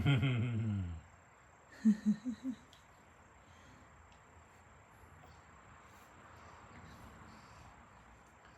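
A low voice-like sound falling in pitch for about a second, then four short voiced sounds about two seconds in. After that, quiet room tone with a faint steady high-pitched whine.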